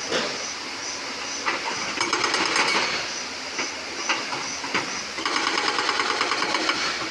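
Excavator-mounted hydraulic rock breaker hammering on stone in rapid, even blows. There is one spell about two seconds in and a longer one from about five seconds to near the end, over the steady running of the machine's engine.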